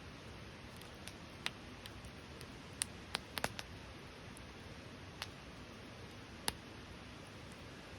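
Wood campfire crackling: scattered sharp pops and snaps, several close together about three seconds in, over a steady low hiss.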